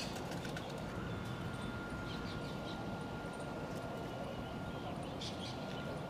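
A small bird chirping a few times, short and faint, over a steady background hiss with a thin steady whine.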